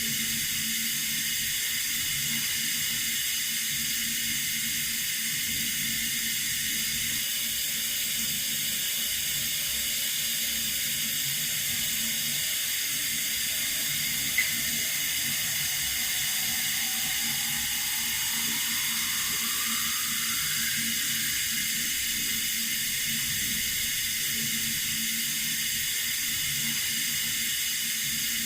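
Water running steadily from a tap, an even hiss. A single brief click about halfway through.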